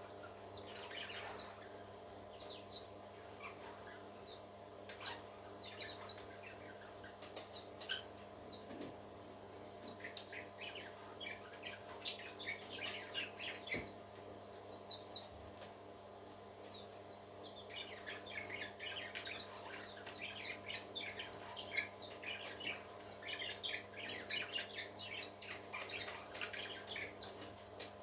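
Parrots chirping in rapid runs of short high notes, busiest in the second half, over a faint steady hum.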